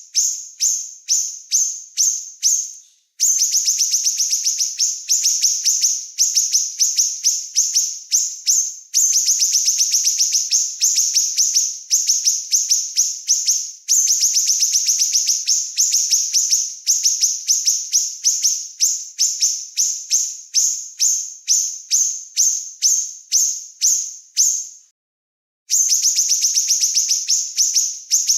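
Recording of a small songbird singing in rapid, high-pitched chirping trills, the phrases coming a couple of times a second, broken briefly about three seconds in and by a silent gap of about a second near the end: birdsong master recording used to train caged songbirds.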